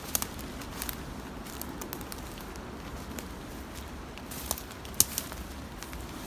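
Dry twigs and forest litter crackling and snapping underfoot in scattered sharp clicks, with two louder snaps, one near the start and one about five seconds in.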